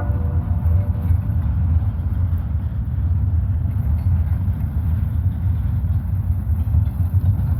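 Diesel locomotives of a CSX freight train (a GE ES44AH and a GE CW44AC) rumbling steadily, a low heavy drone, in the gap between horn blasts.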